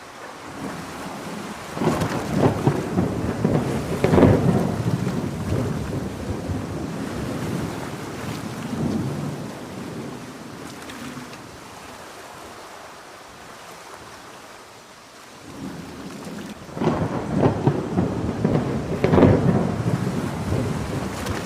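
Two rolls of thunder over steady heavy rain: the first about two seconds in, the second near the end, each rumbling for several seconds with crackling peaks before fading.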